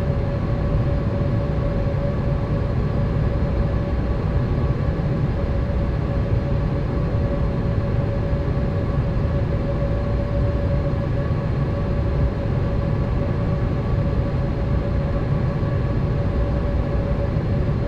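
Boeing 787 cabin noise: the steady rumble of the jet engines and airflow, with a constant hum-like tone over it.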